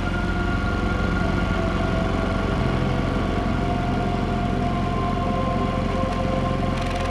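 Small Robin single-cylinder four-stroke generator engine running steadily on a replacement aftermarket carburetor. A few held tones sit over the drone and shift about five seconds in.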